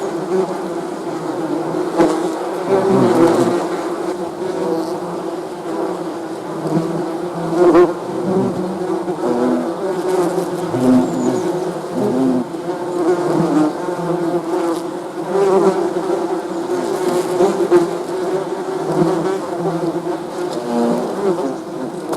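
Many bees buzzing together, a continuous drone made of overlapping wingbeat hums that swell and fade as individual bees pass close.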